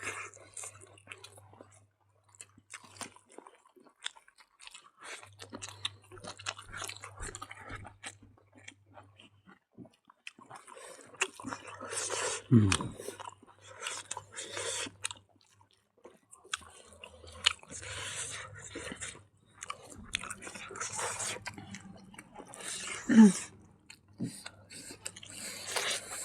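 Close-up chewing and biting of food, irregular moist clicks with some crunching, denser in the second half.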